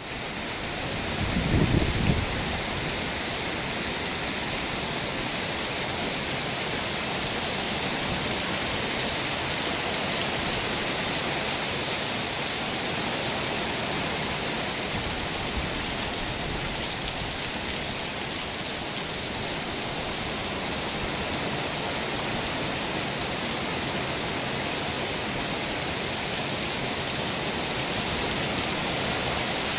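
Heavy, steady rain from a tropical storm, pouring without letting up, with a brief low rumble about two seconds in.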